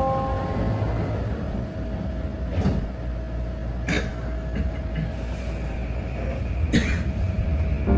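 SkyTrain car running on its elevated guideway: a steady low rumble with a steady whine, and three sharp clacks from the wheels over track joints.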